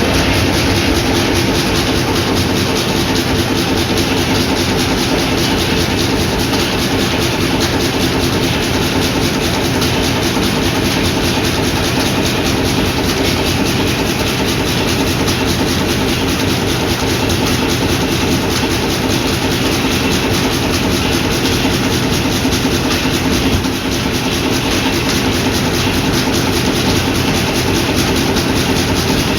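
Old sawmill machinery running steadily, driven by hot-bulb (semi-diesel) engines, with a fast, even mechanical rhythm.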